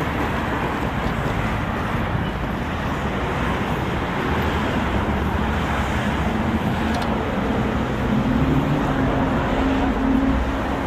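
Steady street traffic noise of passing cars, with a vehicle engine's low hum growing louder near the end.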